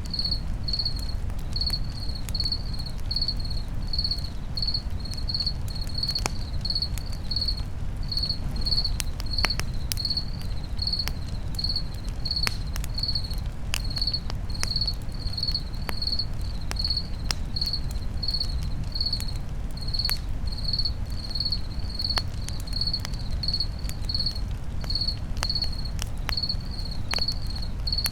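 Crickets chirping steadily, about two chirps a second, over a crackling campfire with scattered sharp pops and a low steady rumble.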